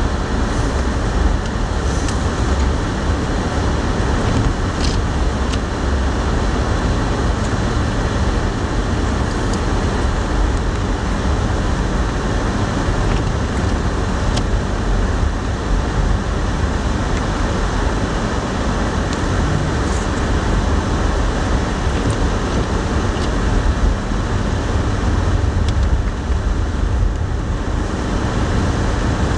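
Steady storm wind buffeting the microphone, a continuous rumbling rush heaviest in the low end, with a few faint ticks.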